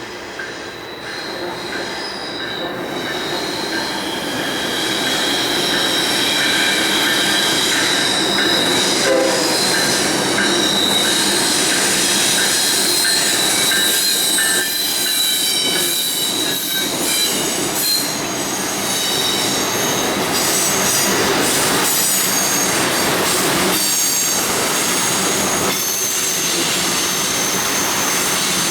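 Freight train rolling past with its wheels squealing on the rails: several high, steady squealing tones come and go over the rumble. It grows louder over the first few seconds, then holds steady.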